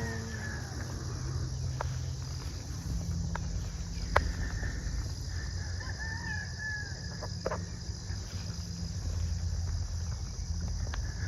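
Faint fowl-like bird calls, once near the start and again around the middle, over a steady low rumble, with a few sharp clicks.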